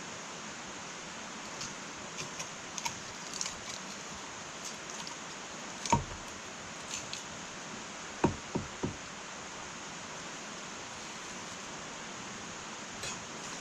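Wood fire burning in an irori sunken hearth: a steady hiss with scattered crackles and snaps. The loudest pop comes about six seconds in, followed a couple of seconds later by a quick run of three knocks.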